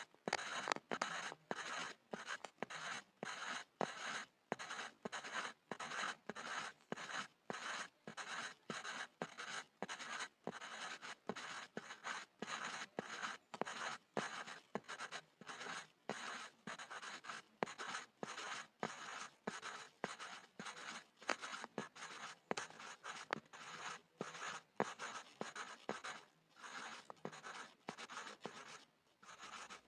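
Pencil scribbling on a board: scratchy graphite strokes in a steady back-and-forth rhythm of about two strokes a second, each separated by a brief pause.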